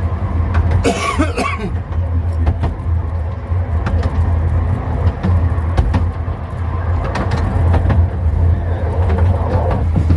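Miniature railway train running along the track, with a steady low drone and frequent clicks and knocks from the wheels and carriages. A brief higher-pitched sound comes about a second in.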